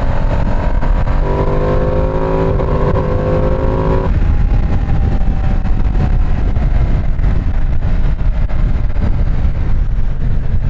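Ducati Streetfighter V2 S's L-twin engine heard on board under heavy wind rush on the microphone. The engine note climbs for a few seconds under acceleration, drops away suddenly about four seconds in, then sinks slowly as the bike rolls on.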